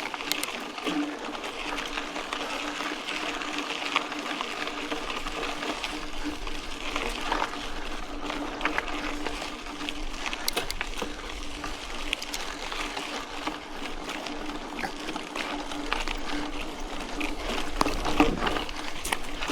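Mountain bike riding on a dirt road: steady tyre noise on the loose surface with frequent small rattles and clicks from the bike.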